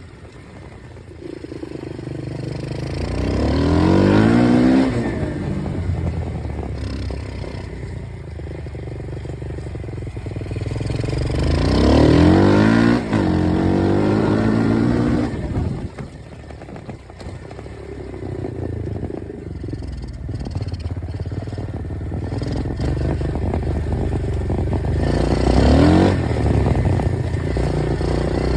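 Dirt bike engine running and revving up three times, its pitch climbing with each surge, and dropping back to a lower, uneven run in between.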